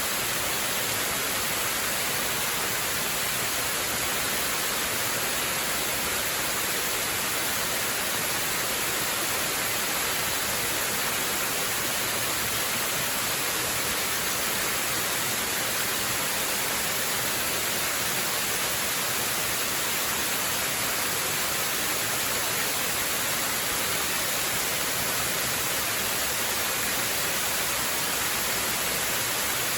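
Waterfall rushing in a steady, unbroken hiss, bright and high-pitched with little low rumble.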